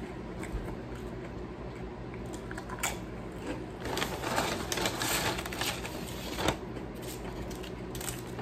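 Someone eating a burrito: chewing with small clicks and crinkles, busiest about four to six seconds in, over a steady low hum.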